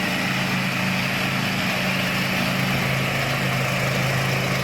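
13 hp Honda single-cylinder engine on a ride-on zero-turn lawn mower running steadily, with a solid, smooth note.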